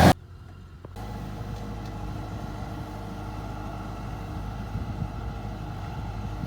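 A loud engine cuts off abruptly at the start, and about a second later a farm machine's engine is heard running steadily at a lower level with a low hum.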